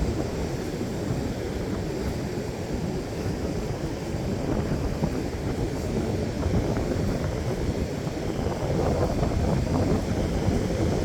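Strong wind buffeting the microphone in a steady low rumble, with ocean surf washing underneath.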